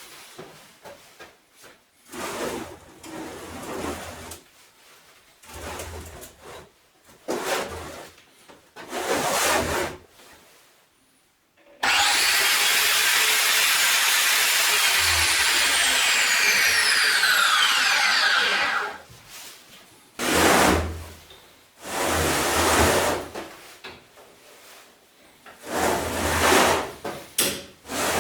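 A 230 mm (9-inch) angle grinder cutting metal: a loud, steady stretch of about seven seconds in the middle that starts abruptly and stops near two-thirds of the way through. Shorter bursts of noise come before and after it.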